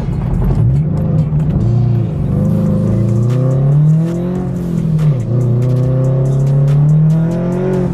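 Turbocharged flat-four boxer engine on E85, heard from inside the cabin, accelerating hard through the gears. The pitch climbs, drops at an upshift near the start and again about five seconds in, then climbs steadily again.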